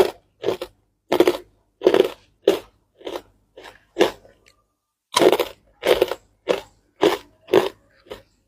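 Crunchy basreng (fried meatball chips) being chewed close to the microphone, in a steady series of loud crunches with a short pause about halfway through.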